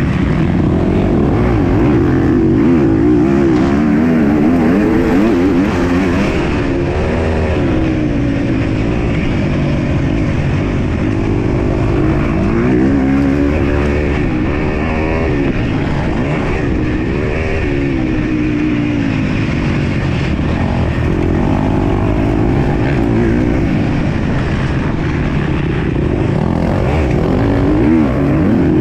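MX2 motocross bike engine under race load, revving up and down again and again through gear changes and throttle on and off, loud and continuous.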